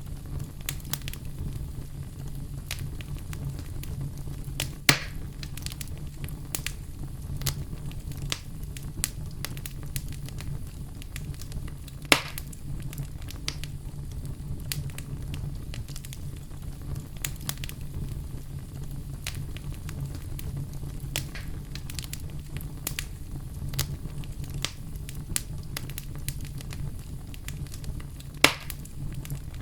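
Campfire burning, with steady crackling over a low, even rumble and three sharp loud pops of the wood spread through it.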